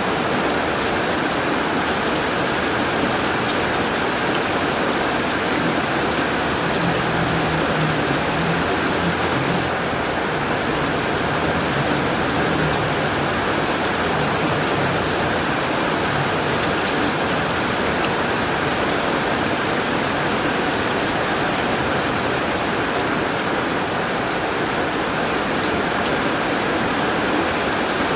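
Heavy rain drumming steadily on a tin roof, a dense even patter. A soft low rumble sits under it through the first half.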